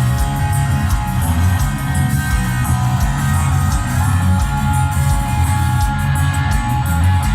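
Live rock band playing loud: distorted electric guitars over bass and a steady drum beat.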